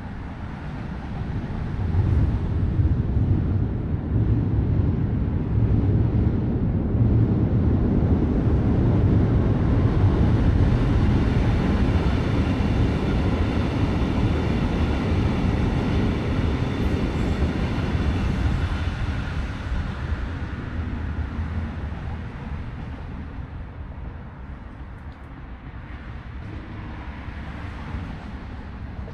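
Brightline passenger train passing, its Siemens Charger diesel locomotives and wheels making a heavy rumble. The rumble builds over about two seconds, holds loud through the middle, then fades in the last third as the train moves off.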